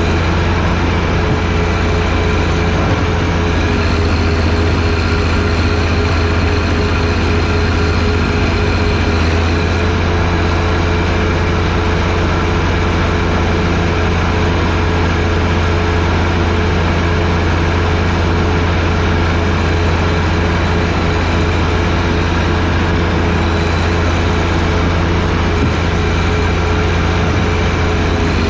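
John Deere 1025R sub-compact tractor's three-cylinder diesel engine running at a steady speed, loud and unchanging, as it works the snowblower.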